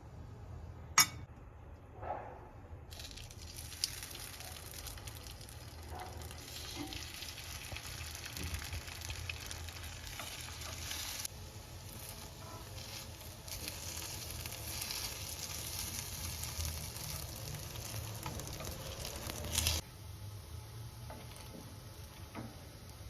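Food frying and sizzling in a pan, a steady hiss that starts about three seconds in and cuts off suddenly near the end. A single sharp click about a second in is the loudest sound.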